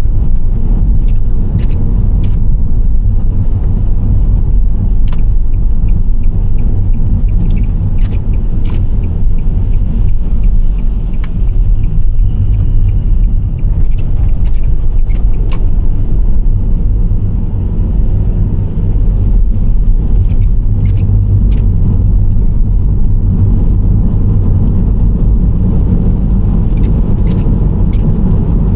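Steady low road rumble of a Nissan Serena C25 minivan on the move: tyre and engine noise, with a few short, sharp ticks now and then.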